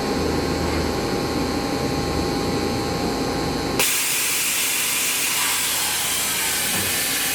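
Mori Seiki MV653-50 vertical machining center running with a steady hum and a few fixed tones; about four seconds in a loud, even spray hiss starts abruptly and keeps going.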